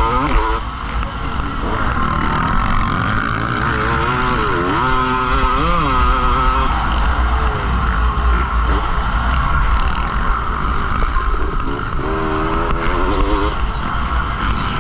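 Motocross motorcycle engines revving, their pitch rising and falling several times over a steady rush of background noise.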